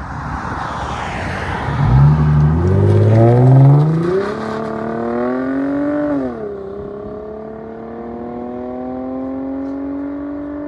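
Lexus IS 250's 2.5 L V6 exhaust, with LCGP resonators in place of the mid mufflers and the rear mufflers deleted, under hard acceleration. After a couple of seconds of rushing noise the engine note climbs steeply for about four seconds, drops sharply at what sounds like an upshift about six seconds in, then climbs slowly again.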